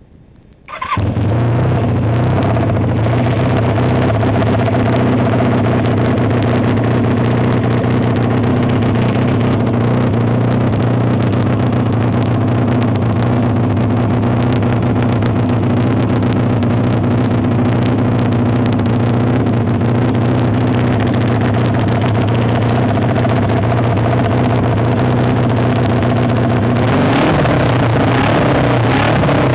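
1981 Honda CM400T's air-cooled parallel-twin engine starting about a second in, then running at a steady idle. It grows slightly louder near the end.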